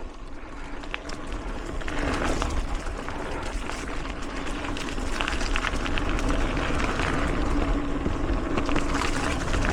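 Mountain bike rolling fast along a dirt singletrack: tyre noise with many small clicks and rattles from the bike over the trail, wind rumble on the microphone, and a steady hum that comes in about two seconds in.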